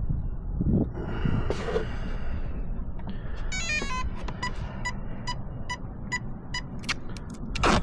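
Start-up tones of a Hydra marine ESC played through the RC boat's brushless motor as it is switched on: a quick run of stepped notes, then a row of short, evenly spaced beeps about two a second.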